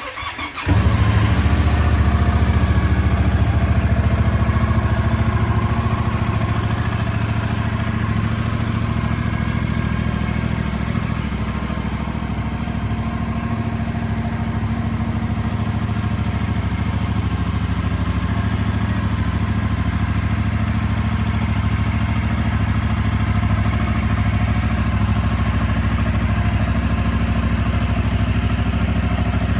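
Yamaha Tracer 7's 689 cc parallel-twin engine starting up, catching within a second, then idling steadily. It idles slightly higher for the first few seconds before settling.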